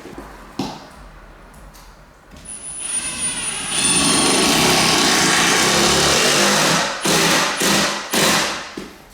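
Power drill driving a 2.5-inch screw into a wooden door jamb: one long steady run of about four seconds with a high motor whine, then three short trigger bursts as the screw is seated.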